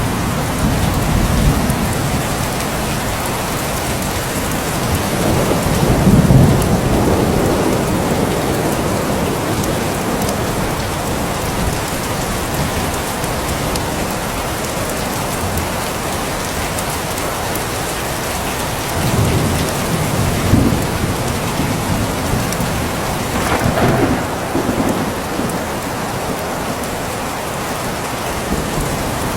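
Steady heavy rain falling, with low rolls of thunder rumbling up about six seconds in, around twenty seconds in and again near twenty-four seconds.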